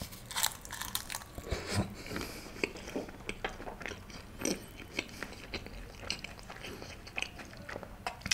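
Close-miked chewing of a big mouthful of food topped with a piece of paneer: a bite, then irregular wet mouth smacks and clicks.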